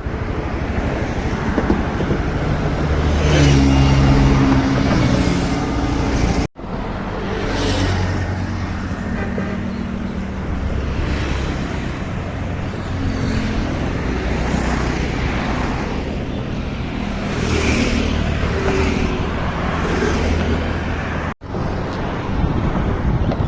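Highway traffic: a steady rush of tyres and engines, with heavier vehicles swelling past several times. The sound breaks off for an instant twice, about a third of the way in and near the end.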